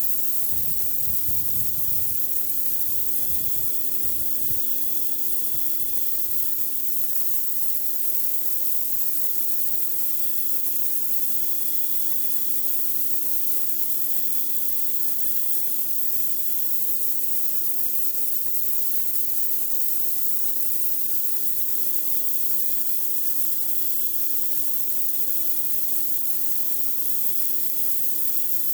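Pressure washer blasting a driveway: a steady hiss of high-pressure water spray, with a steady low hum underneath and some low rumbling in the first few seconds.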